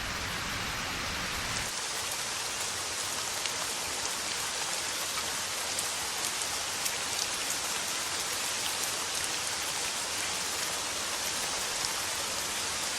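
Heavy rain pouring down steadily, with a fine patter of drops.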